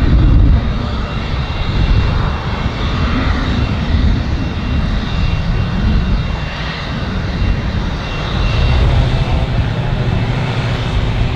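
Fixed-wing aircraft engine running steadily, a loud rumble with a faint thin high whine above it.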